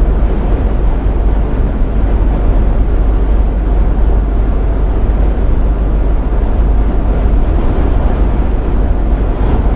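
Steady running noise of a truck on the road, engine and tyres together, with a strong deep rumble underneath.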